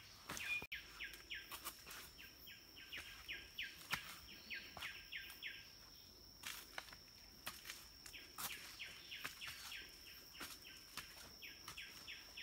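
Faint jungle ambience. A bird calls in several runs of short down-slurred notes, about four or five a second, over a steady high insect drone, with scattered crunches of footsteps on leaf litter and stones.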